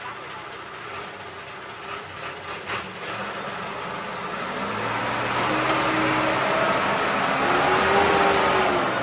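An engine running and growing steadily louder from about three seconds in, its pitch rising and then falling near the end.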